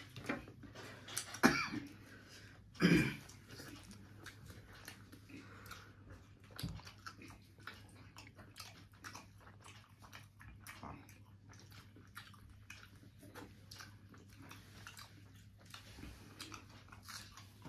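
A person eating curry and roti: steady wet chewing and lip-smacking, with two louder short mouth sounds about one and a half and three seconds in.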